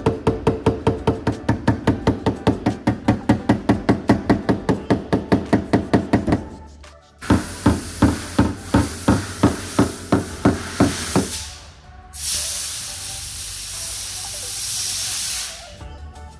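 Rapid, even tapping at about five strikes a second, typical of a paintless dent repair tap-down on a car body panel. After a short pause the tapping returns over a hiss, and a steady hiss runs alone near the end.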